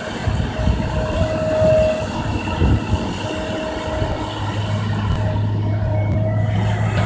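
Kobelco crawler excavator running as it digs, its engine and hydraulics working, with irregular low knocks in the first three seconds and a steadier hum from about four seconds in.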